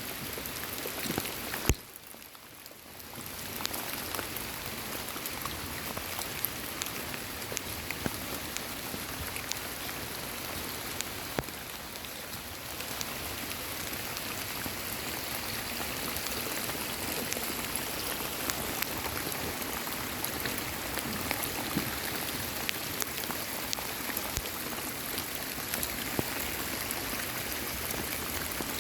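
Steady rain falling, with scattered drops ticking sharply close by; it briefly drops quieter about two seconds in.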